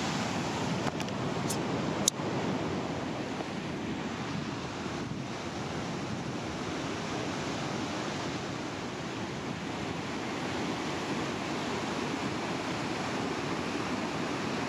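Steady rush of a river rapid's whitewater, water churning up into a steep standing wave. A couple of brief clicks about two seconds in.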